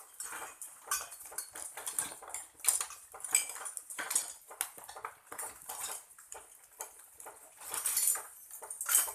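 Pruning scissors snipping shoots off an ornamental tree, with the rustle of the branches being handled: an irregular run of short metallic clicks, louder about eight and nine seconds in.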